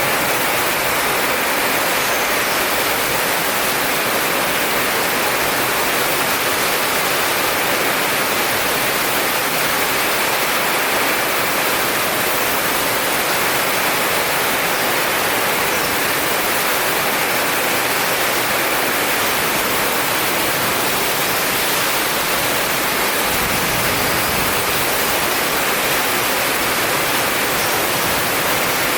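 Heavy rain falling in a dense, steady hiss, with no rise or fall and no thunderclap.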